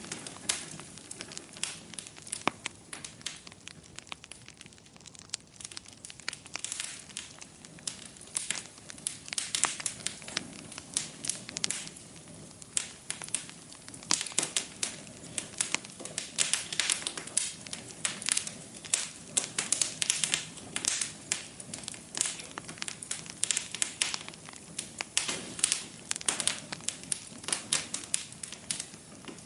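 Wood fire crackling in a fireplace: a steady run of sharp pops and snaps that thins out for a few seconds a little way in and again around the middle.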